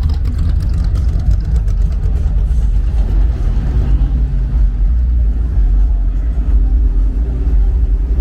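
A car engine idling steadily, with street noise around it.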